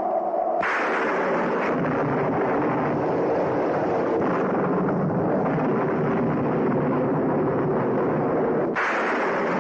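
A brief held tone, then about half a second in a loud, continuous thunder rumble begins and runs on without a break, swelling again near the end: a storm sound effect in the intro of the Trishul film logo.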